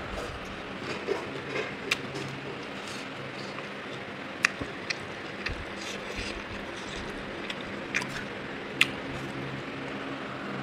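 Eating sounds of a person chewing chicken: scattered sharp clicks and soft wet mouth smacks over a steady low background hum.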